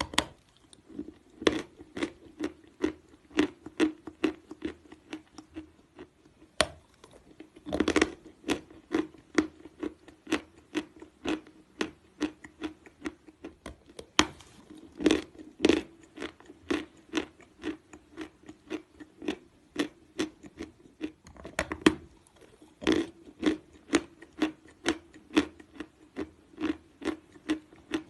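Close-up chewing of natural chalk: a steady run of dry crunches, about two a second, with a few louder bites.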